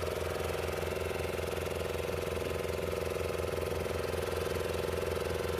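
An engine running steadily at idle, with a constant hum and an even, rapid low throb.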